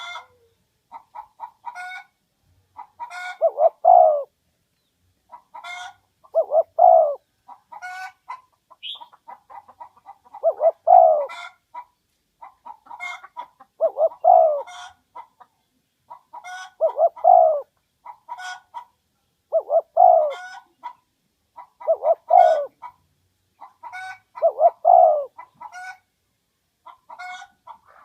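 Spotted dove cooing its call over and over: each phrase is a quick run of short notes ending in a louder, falling coo, repeated about every three seconds.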